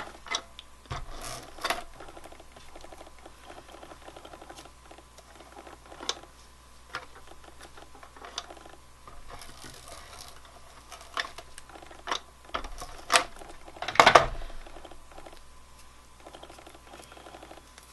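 Crafting noises from a hot glue gun and a paper card being handled: scattered small clicks and taps over a faint, fine rattling texture, with a louder knock about fourteen seconds in.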